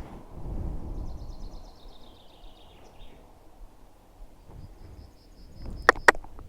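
Two runs of high, rapid chirping trills over a low rumbling noise, with two sharp clicks close together near the end.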